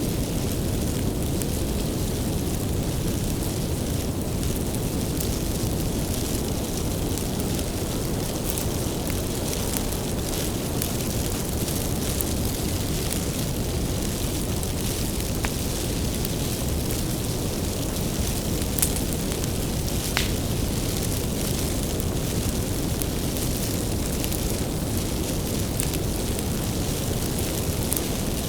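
Wood bonfire burning, with a steady low rush of flame and scattered sharp crackles and pops of the burning firewood.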